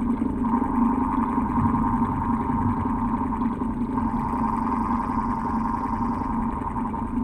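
Old electric fan running with a steady, unbroken hum and whir.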